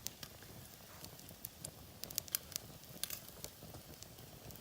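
Wood campfire crackling: irregular sharp pops and crackles, thickest from about two seconds in.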